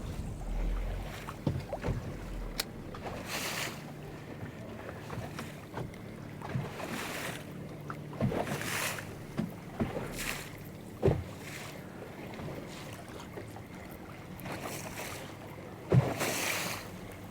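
Small waves slapping and lapping against the hull of a flats boat, with wind buffeting the microphone in gusts. A few sharp knocks come now and then, the loudest near the end.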